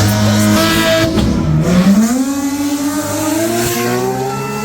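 A car engine revving hard: held high at first, it dips briefly about a second in, then climbs steadily in pitch to the end.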